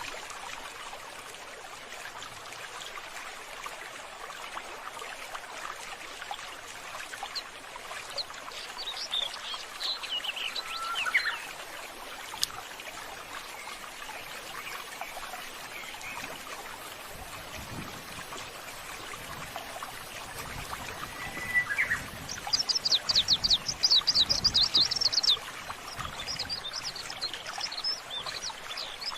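Water trickling steadily with birds chirping over it. A few falling calls come about a third of the way in, then a loud, fast high trill lasting about three seconds, followed by more chirps near the end.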